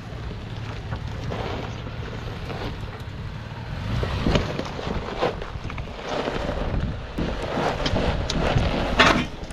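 Off-road truck engine running slowly under load as it crawls over a rocky trail, with tyres crunching and scattered knocks. A sharper, louder hit near the end sounds like the tailpipe striking rock.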